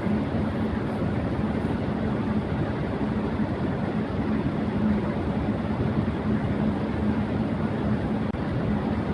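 Electric fan running at high speed: a steady rush of blade-driven air with a faint constant hum underneath.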